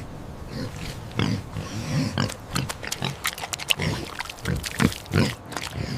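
Pig grunting and snorting in a run of short grunts.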